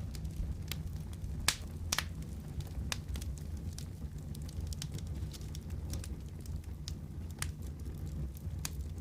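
Wood fire burning in a fireplace: a steady low rumble of flames with sharp, irregular pops and crackles, two of the loudest about one and a half to two seconds in.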